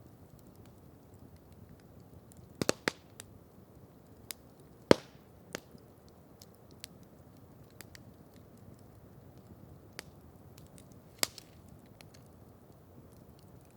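Campfire wood crackling: scattered sharp pops, a quick cluster about three seconds in and the loudest about five seconds in, over a faint steady low hiss.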